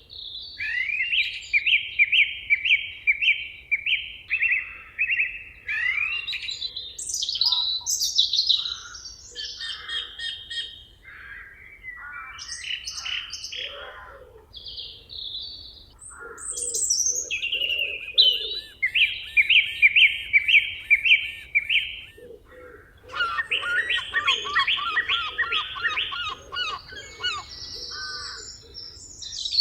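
Several songbirds singing over one another. Some phrases are runs of quick, evenly repeated notes and others are varied warbling. A lower, pulsing series of notes sounds under the song near the end.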